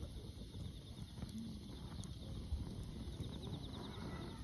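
Wood campfire burning, with a steady low rumble and scattered crackles and pops.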